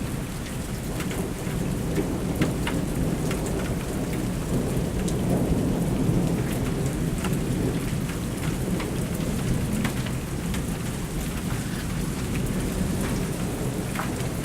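Thunderstorm: steady rain pattering on surfaces, with a continuous low rolling of thunder underneath.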